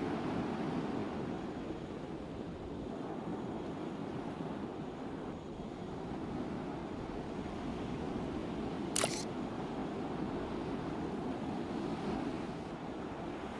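Steady low rumble and rush of a cargo ship under way, with one sharp click about nine seconds in.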